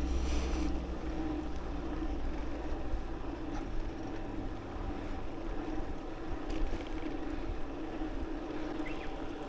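Steady wind and road rumble from riding a bicycle, picked up by the rider's camera microphone, with a low drone that holds throughout.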